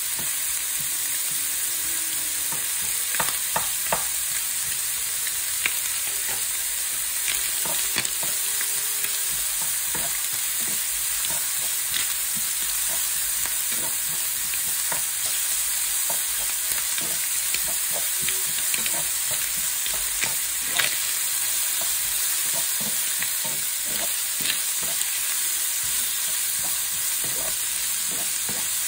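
Diced red onion and ham sizzling in a hot frying pan, a steady high hiss, while a spatula stirs them with frequent light scrapes and taps against the pan.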